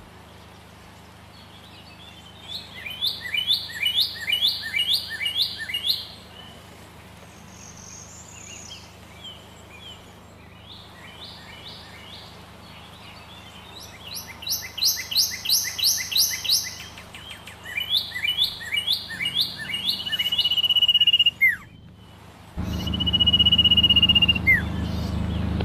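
A songbird singing in three bursts of quick, repeated, high notes, over a faint low hum. Near the end a louder low steady rumble starts abruptly.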